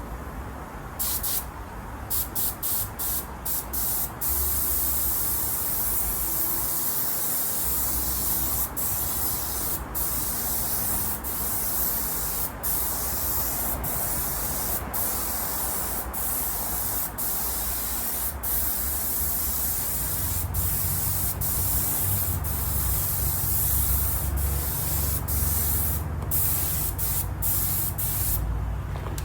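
Compressed-air spray gun spraying water-based leather paint: a hiss in short bursts at first, then held almost unbroken with brief pauses. A low hum joins about two-thirds of the way through.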